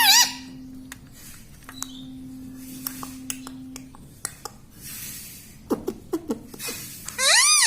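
Pet rose-ringed parakeet making scattered light clicks and taps, then giving a screeching call that rises and falls in pitch near the end.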